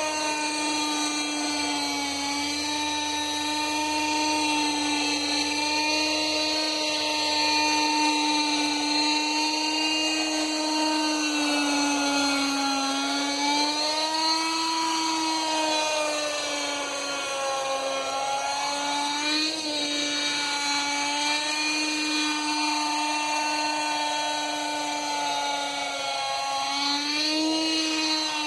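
Norvel .061 two-stroke glow engine of a Lite Machines 110 RC helicopter running at high revs: a steady high-pitched whine whose pitch rises and falls gently, with a few brief swoops, as throttle and rotor load change.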